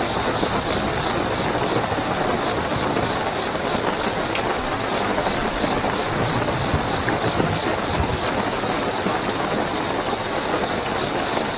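Steady heavy rainfall with a constant high cricket trill running underneath, and a few separate drops ticking now and then.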